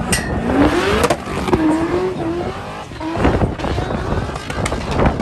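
A drift car's engine revving up over about a second, then held at high revs for about two seconds before dropping away.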